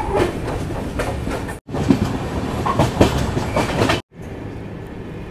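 Passenger express train running at speed, heard from an open coach door: the wheels rumble and clatter over the track. The sound cuts out briefly twice, about one and a half seconds in and again about four seconds in, and after the second break it is quieter and steadier.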